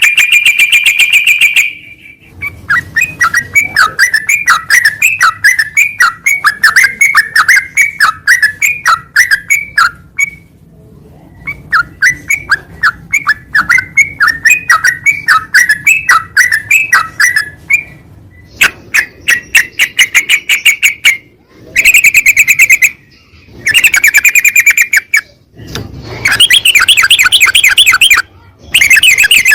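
Yellow-vented bulbul (trucukan) singing: long runs of quick, chirpy notes, several a second, broken into phrases with short gaps, some of the phrases starting and stopping abruptly as if spliced.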